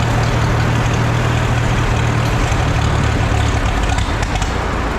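Antique tractor engine running unevenly just after a hard start, wanting to quit. Its steady low hum weakens and turns ragged about four seconds in.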